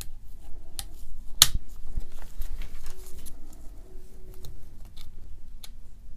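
Sharp clicks and light handling noises as a carbon brush is fitted into the brush holder of a vintage AEG BH25 rotary hammer, with the loudest click about one and a half seconds in.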